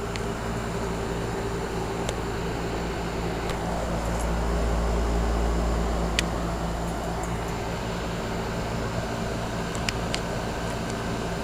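2005 Trane XR11 2.5-ton heat pump outdoor unit running steadily in cooling mode: the compressor hum and the condenser fan's rush. Two faint clicks are heard, one midway and one near the end.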